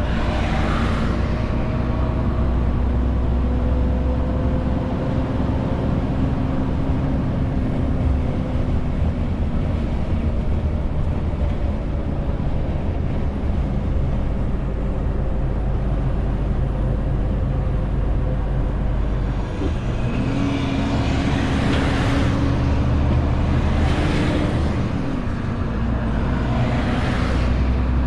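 Renault T520 truck's inline-six diesel running steadily while hauling a 40-tonne load. Its engine note steps up about twenty seconds in and drops back a few seconds later, with several brief hissing whooshes.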